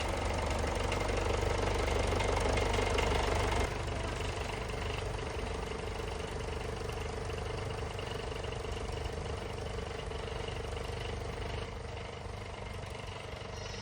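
John Deere tractor's diesel engine running steadily at low revs, dropping a little in level about three and a half seconds in.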